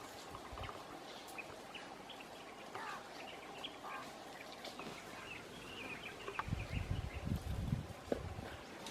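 Outdoor farmyard ambience with scattered short bird calls and chirps. A burst of low rumbling comes in a bit past the middle and lasts over a second.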